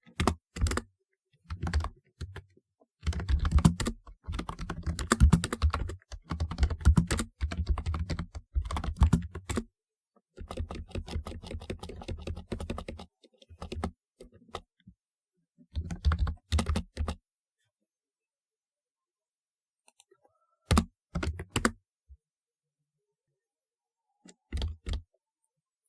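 Typing on a typewriter-style computer keyboard: fast runs of clacking keystrokes for several seconds, broken by short pauses, then a few brief bursts of keys with longer silent gaps between them.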